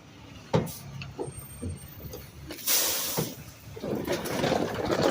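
Garbage truck noises: a knock about half a second in, then a short, loud hiss of air from the truck's air brakes about halfway through, followed by rough rumbling and scraping noise that builds toward the end.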